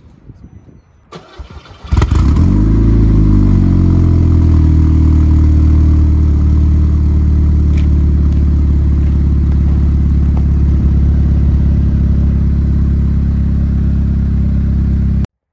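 Audi engine starting through a freshly fitted sport catalytic converter, heard at the exhaust. It catches about two seconds in, the revs flare and drop back, then it idles steadily with a loud, deep exhaust note until the sound cuts off abruptly near the end.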